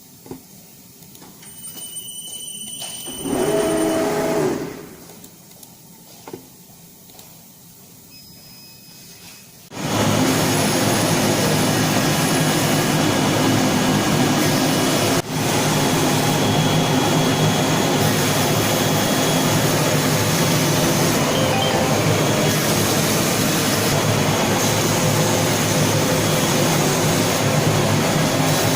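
A leather cutting machine starting up: after a short louder sound a few seconds in, a loud steady machine noise like a blower or vacuum comes on suddenly about ten seconds in and runs on evenly.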